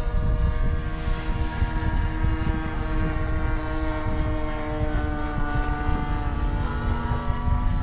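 Radio-controlled model airplane engine and propeller running with a steady drone that shifts slightly in pitch, over low wind rumble on the microphone.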